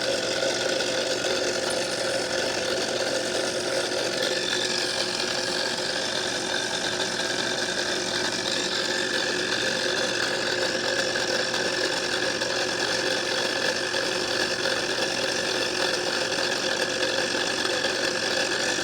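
Home-built lathe running steadily at a constant speed, its motor and drive giving a continuous hum made of several steady tones.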